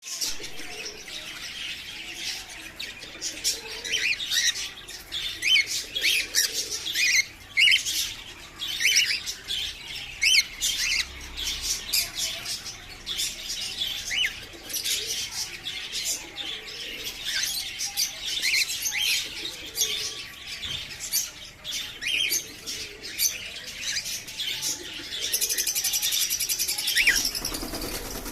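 Cockatiels chirping and calling over and over, many short chirps that slide up and down in pitch. Near the end a louder rush of noise takes over.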